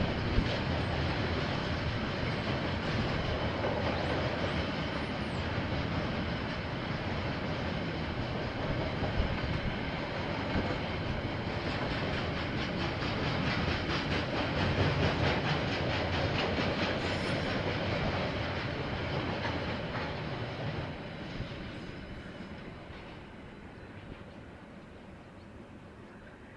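KiwiRail train rolling past on the rails, its wagons running by with a steady rail noise that fades away over the last several seconds as it recedes.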